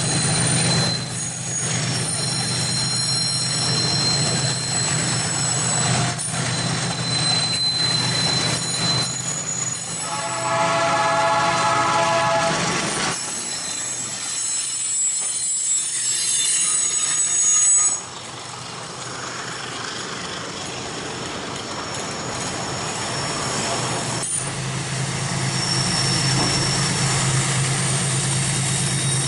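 Freight train running on the mountain line: diesel locomotive engines with steel wheels squealing high on the curves, and a horn blast of about three seconds around ten seconds in. The level drops suddenly near eighteen seconds, then the squeal and engine sound build back up.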